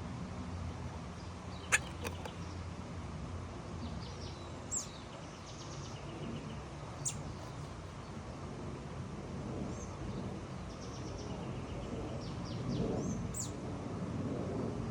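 Small birds giving short, high chirps now and then, over a steady low hum. A sharp click about two seconds in is the loudest sound, with two fainter clicks later.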